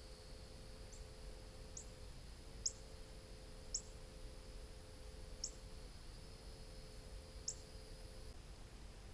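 Short, sharp high chip calls from a small bird at a feeder, about six single notes spaced a second or two apart, over a steady high-pitched drone.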